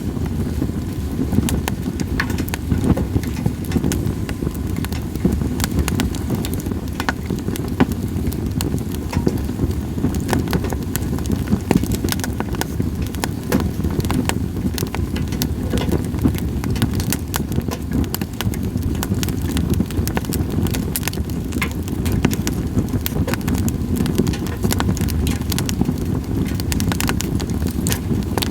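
Campfire of split sawtooth oak (kunugi) firewood burning, crackling and popping continually in quick irregular clicks over a steady low rumble.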